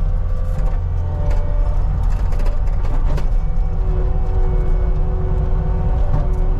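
CAT 279D compact track loader running hard with its diesel engine, a steady whine over the engine note, and a few sharp clanks and rattles from the tracks and bucket.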